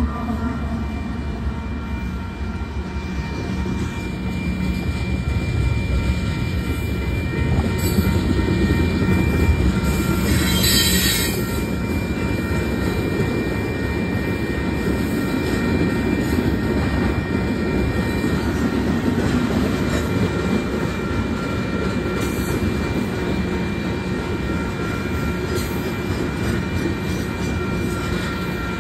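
A train rolling past with a steady rumble of wheels on rail, over which the wheels sing in several steady high squealing tones.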